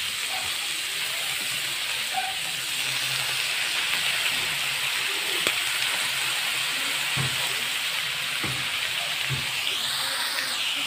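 Diced pork frying in a wok with chopped taro stalks added and stirred in: a steady sizzling hiss with a few soft knocks in the second half.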